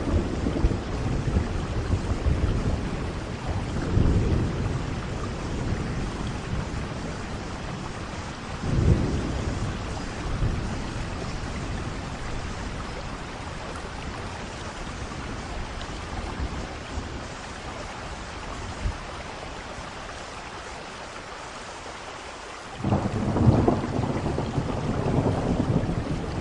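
Steady rain falling with rolling thunder: low rumbles at the start and a few seconds in, dying down to rain alone, then a loud new thunderclap breaks in near the end.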